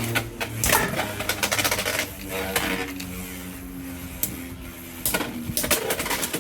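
Two Beyblade X spinning tops whirring in a plastic stadium, a steady spinning hum broken by sharp clacks as they collide and scrape, with a quick flurry of clacks near the end.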